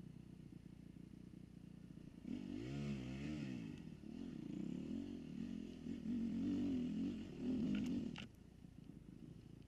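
Dirt bike engine revving up and down several times, starting about two seconds in and cutting off abruptly near the end.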